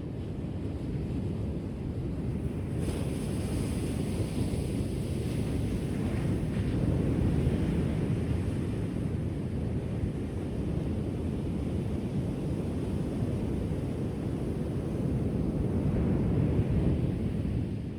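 Ocean surf washing onto the shore: a steady low rushing that swells about eight seconds in and again near the end, with a lighter hiss of spray in the first few seconds.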